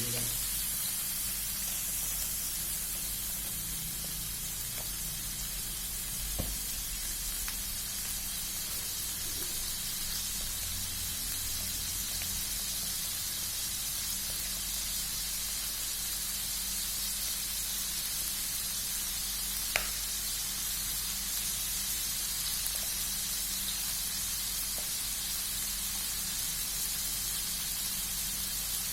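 Pieces of basa (tra) fish sizzling steadily in hot frying oil. Two brief sharp clicks sound over the sizzle, one about a fifth of the way in and one about two-thirds in.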